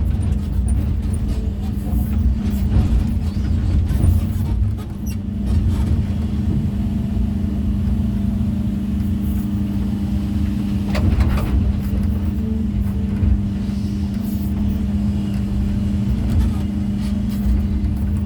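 Heavy diesel machine engine, most likely a construction excavator working the stones, running steadily with a constant low drone. There is a brief knock about 11 seconds in.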